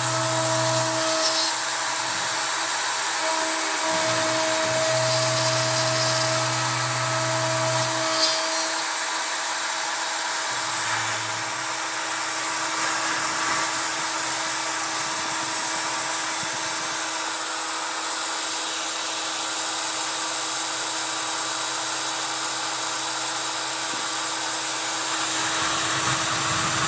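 CNC router at work: the Kress router spindle runs steadily with a high whine and hiss as a 3 mm end mill cuts pine. The axis motors hum at low pitches that stop, restart and change several times in the first eight seconds as the machine moves.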